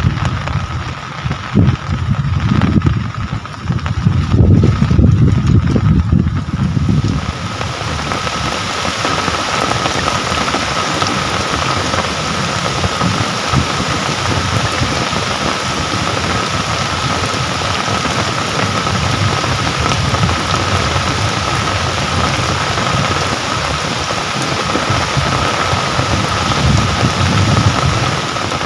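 Rain falling in a steady hiss, with a thin steady tone running beneath it. For the first six or seven seconds a gusty low rumbling lies over the rain, then it drops away and the rain hiss carries on evenly.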